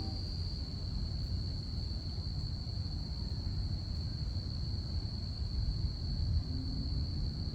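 Crickets chirping in one steady, unbroken high trill over a low, steady rumble.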